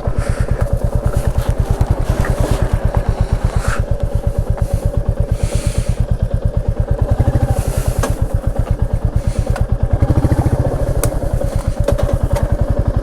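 Motorcycle engine running at low revs with an even, rapid beat, the vehicle rolling along.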